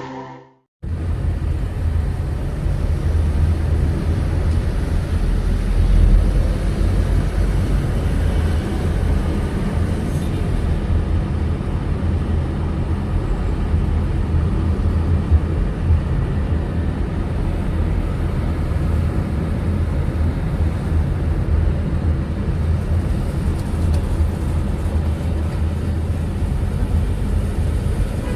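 Car driving through city traffic: a steady low rumble of engine and road noise, starting about a second in after a brief silence.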